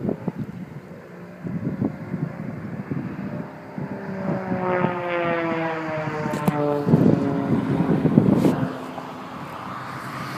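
Aerobatic airplane's engine heard in flight, its drone sliding steadily down in pitch from about four to seven seconds in. Gusts of wind rumble on the microphone around it.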